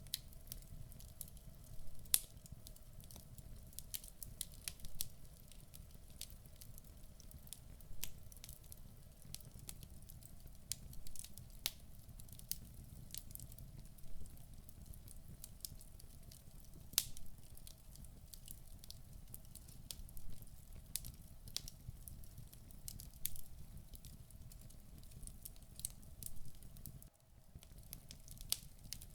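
Wood fire burning in a fireplace: logs crackling with frequent sharp, irregular pops over a low steady rumble. Near the end the sound briefly drops out for a moment.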